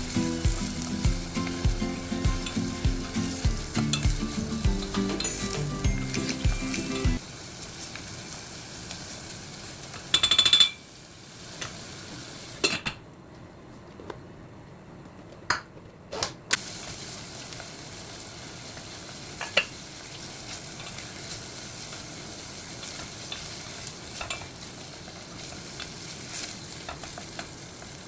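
Chicken frying in a pan with a steady sizzle, stirred now and then, the utensil clicking against the pan a few times.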